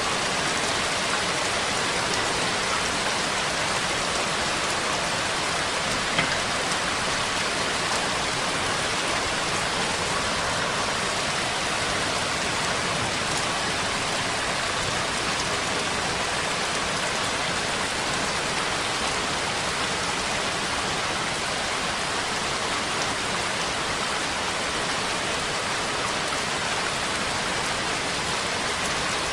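Steady rain falling, an even hiss of many drops with one sharper tick about six seconds in.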